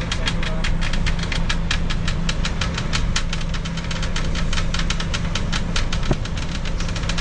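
An engine running steadily with a rapid, even knocking, about eight beats a second, over a steady low hum.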